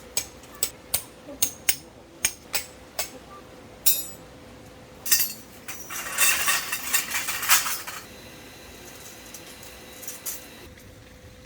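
A hammer striking a metal tent peg: sharp, ringing metallic clinks about three a second, then a few slower ones. About five seconds in comes a few seconds of scraping, rustling noise.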